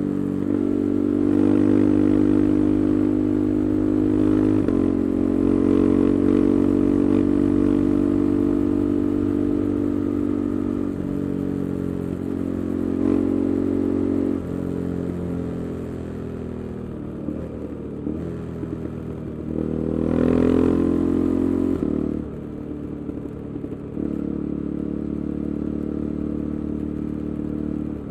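KTM 390 Adventure's single-cylinder engine running through an aftermarket Arrow exhaust with the resonator removed, its pitch stepping up and down several times and swelling in a brief rev about twenty seconds in.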